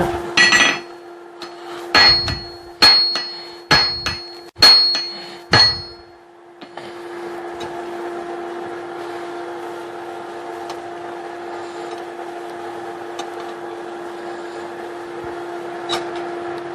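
Hand hammer striking hot steel on an anvil, about six ringing blows in the first six seconds, irregularly spaced. After that only a steady hum and hiss continue.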